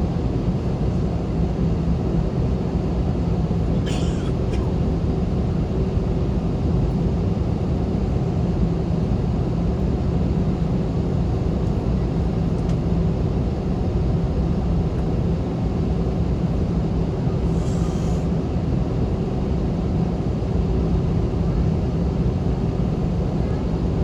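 Steady cabin noise inside an Airbus A321, its jet engines running evenly with a constant low hum. Two brief light rattles sound, about 4 seconds in and again near 18 seconds.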